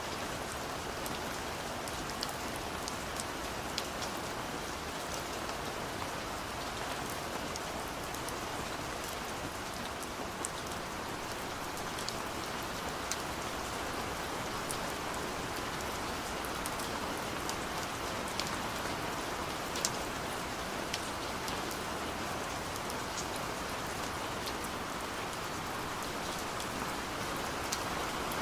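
Steady rain falling, an even hiss with many sharp drip and drop taps scattered through it.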